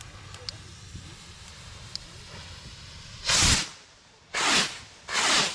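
Three firework rockets launching one after another, each a short, loud whoosh lasting about half a second, the first about three seconds in.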